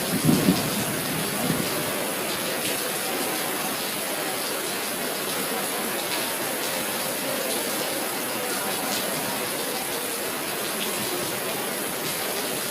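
Water rushing steadily, with a few brief louder splashes or knocks in the first second.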